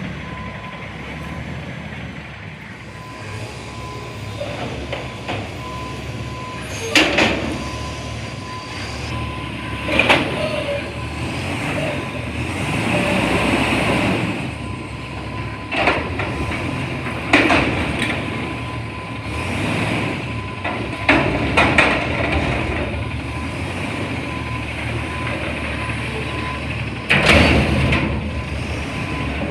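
Garbage truck running steadily, with a series of about seven sudden loud bangs spread through the stretch.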